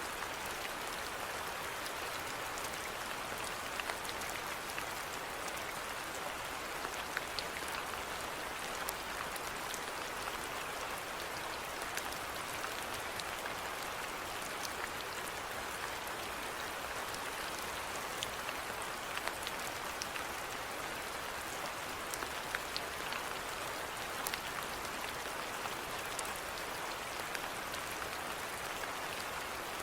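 Steady rainfall, an even hiss with scattered individual drops ticking close by.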